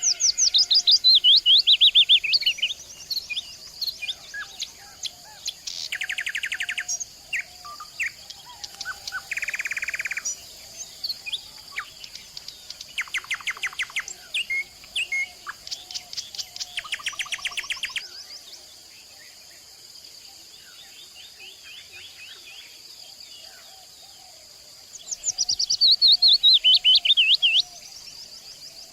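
Several wild songbirds singing. A loud, rapid trill falls in pitch over about two seconds at the start and again near the end, and other birds give quick runs of repeated notes in between. A steady high hiss runs underneath.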